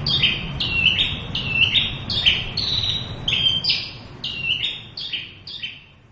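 Horsfield's bush lark (branjangan) singing: a fast run of short, clear notes that step down in pitch, several a second, fading out near the end.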